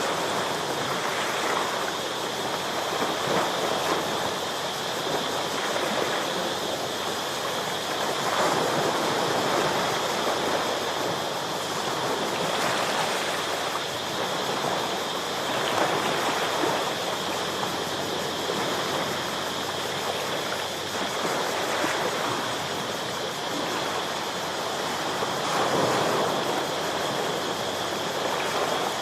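Sea waves washing and breaking against coastal rocks, a hiss of surf that swells and eases every few seconds, over a steady high-pitched hum.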